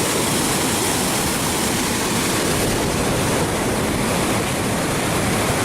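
Water pouring over a dam, a steady loud rush with no letup.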